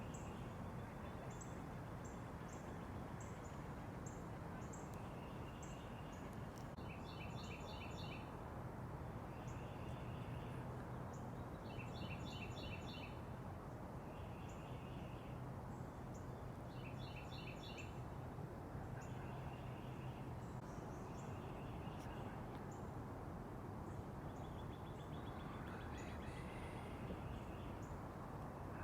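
Backyard songbirds calling over steady low background noise, one bird repeating a short, rapid trill about every five seconds with fainter chirps and high ticks between.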